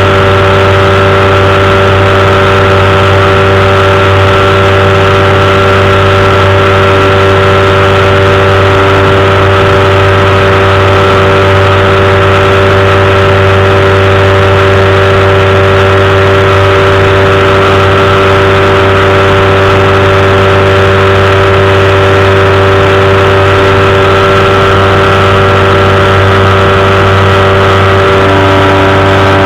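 Powered parachute's engine and propeller running loudly and steadily at cruise power, with a slight change in engine pitch near the end.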